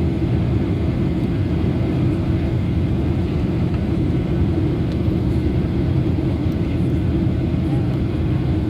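Jet airliner's engines and airflow as a steady, even rumble heard inside the cabin.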